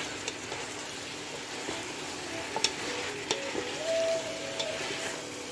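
Chicken and vegetables sizzling as they are stir-fried in a stainless steel pot, stirred with a wooden spatula, with a few light knocks of the spatula against the pot.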